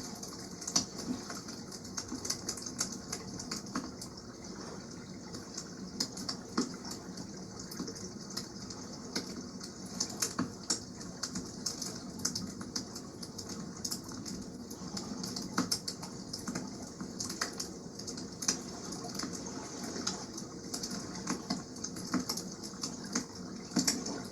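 Wood campfire crackling and popping in irregular sharp clicks, over a steady rush of water.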